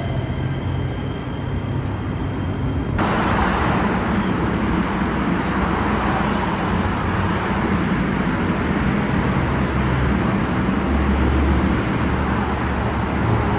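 Light-rail train with a steady electric whine over a low hum. About three seconds in, it cuts abruptly to louder, steady street and traffic noise with a low rumble.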